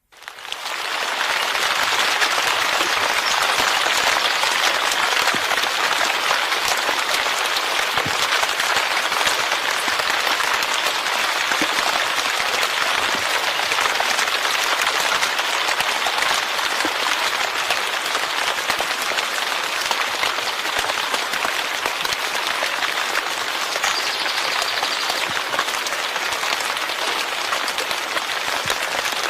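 Steady heavy rain, a dense even patter that fades in over the first second or so and then holds.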